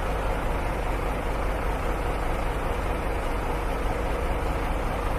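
Steady vehicle engine and road noise, an even low rumble with a faint steady hum, unchanging throughout.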